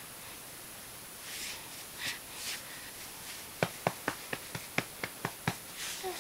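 Baby blowing spit bubbles with his lips: a few soft breathy puffs, then from about halfway a quick run of small popping sounds, about four a second.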